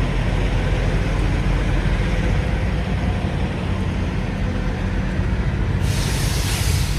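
Semi-truck engine running with a steady low rumble. Near the end a sudden burst of hiss lasts about a second.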